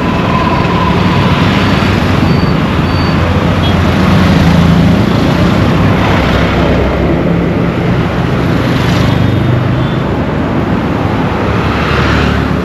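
Road traffic noise heard from a moving vehicle: a steady engine note whose pitch shifts every few seconds, over continuous road and tyre noise that swells and eases.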